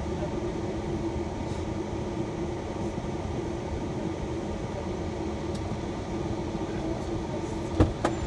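Steady engine and road rumble inside a shuttle van's cabin, with a sharp knock near the end.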